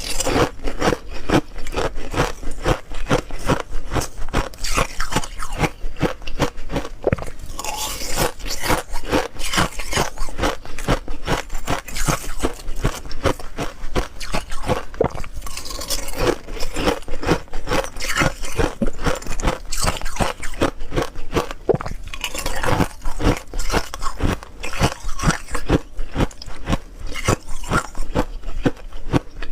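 Ice being bitten and chewed close to the microphone: steady, rapid crunching with many sharp cracks of ice each second.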